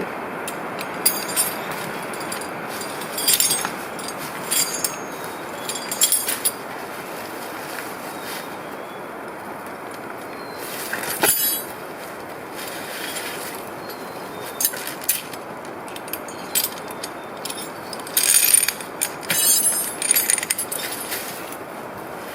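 A tractor running steadily, with irregular sharp metallic clinks and clanks from chain and rigging, the densest cluster coming near the end.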